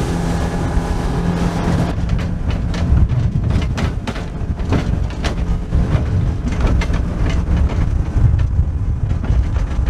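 Motorboat running at speed, its engine hum under a heavy low rumble of wind and water, with the hull slapping over chop in a run of irregular knocks from about two seconds in.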